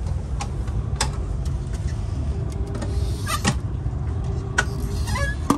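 Steady low rumble of an ETS electric intercity train running, heard from inside the passenger coach, with a few sharp clicks and knocks.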